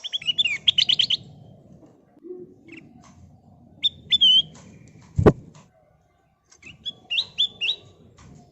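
A kutilang emas bulbul singing: a quick run of falling chirps at the start, then short whistled calls with gaps between them. A single sharp knock a little over five seconds in, over a low rumbling background.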